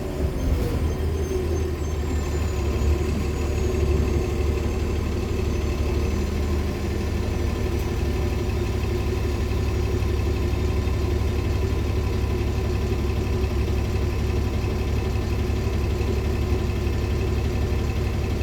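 Heard from inside the cabin, the articulated hybrid bus's Cummins ISL9 diesel runs steadily with a low rumble and several steady whines. A faint high whine falls slightly in pitch over the first few seconds.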